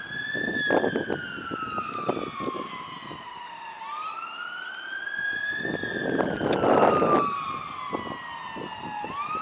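Fire engine siren on a slow wail, rising quickly and falling slowly about every four and a half seconds. Vehicle engine and road noise swells under it, loudest about six to seven seconds in.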